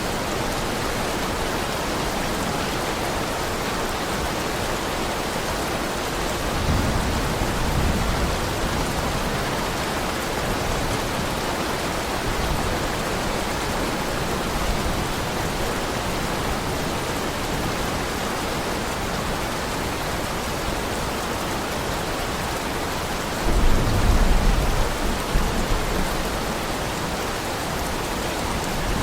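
Steady heavy rain, an even hiss, with two low rolls of thunder: one about seven seconds in lasting a couple of seconds, and a louder one starting about twenty-three seconds in and rumbling for three or four seconds.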